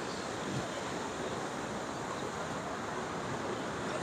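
Steady rush of surf on the beach, mixed with wind noise on the microphone.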